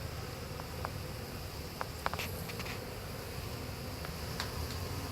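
Honeybee swarm buzzing steadily at close range, with a few faint short ticks about two seconds in and again near the end.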